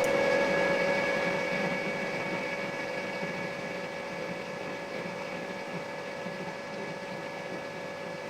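Steady electric fan-like machine hum with a few constant tones. It is loudest at the start, eases down over the first few seconds, then holds steady.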